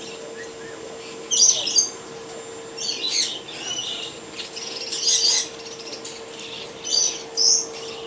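Caged pet birds chirping in short bursts, four or five clusters of quick high calls, over a steady low hum.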